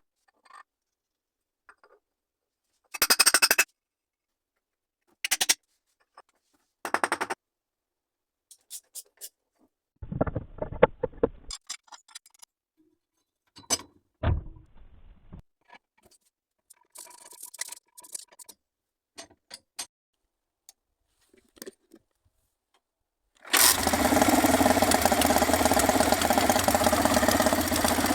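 Scattered clicks, knocks and scrapes of hand work on an engine, with quiet between them. Then, a few seconds before the end, a small engine starts suddenly and runs steadily and loud.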